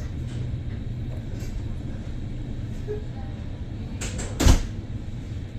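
Steady low rumble inside a train carriage, with a brief loud knock or bang about four and a half seconds in.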